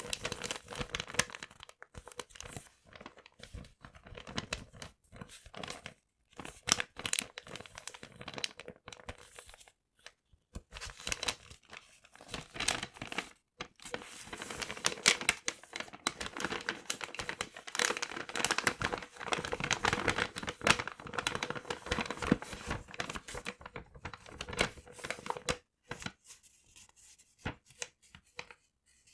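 Paper being crumpled and torn close to the microphone: stretches of dense crinkling and ripping, broken by several short pauses.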